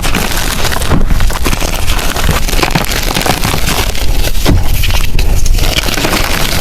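Blocks of gym chalk crushed and crumbled by hand, a dense run of crunching and crackling.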